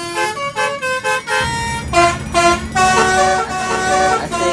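Multi-tone 'telolet' bus horn playing a quick tune of short notes that step up and down in pitch. A low steady hum joins in about a second and a half in.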